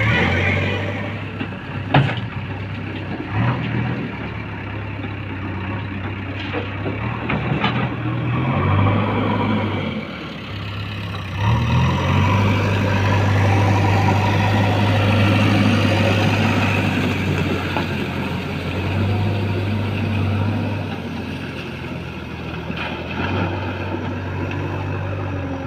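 Heavy diesel engine of construction machinery running, its level rising and falling several times as the load changes, with one sharp knock about two seconds in.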